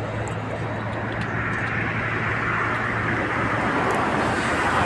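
A motor vehicle going by: a steady low engine hum, with tyre and road noise swelling louder toward the end as it draws nearer.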